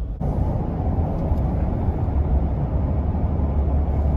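Truck driving: a steady rumble of engine and tyre noise, cutting in just after the start and cutting off abruptly at the end.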